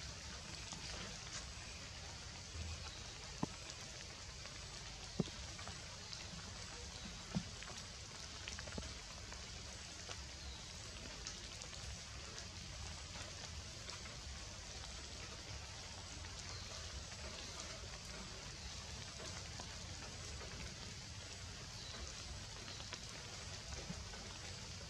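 Steady rain falling on the leaves of the tree canopy, an even hiss with three sharper drip ticks in the first eight seconds.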